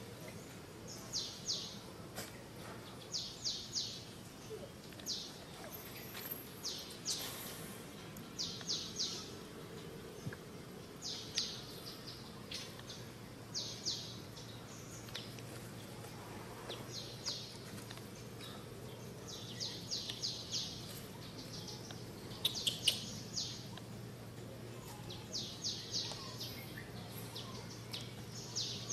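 A bird calling over and over, each call a quick group of two to four sharp high chirps, repeating every couple of seconds. Underneath is a faint, steady low hum.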